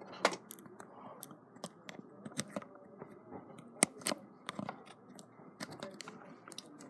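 Irregular small clicks and taps of pliers working a stranded wire tight around a plug's screw terminal, with one sharper tick about four seconds in.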